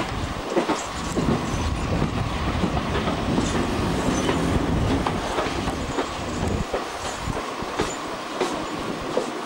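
Passenger train running, heard from an open coach window: wheels clicking over rail joints over a steady rumble of the coaches, the low rumble easing off about seven seconds in.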